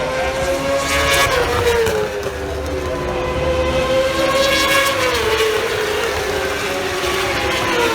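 Moto2 racing motorcycles with Honda 600 cc inline-four engines passing at high revs one after another, each engine note falling in pitch as a bike goes by.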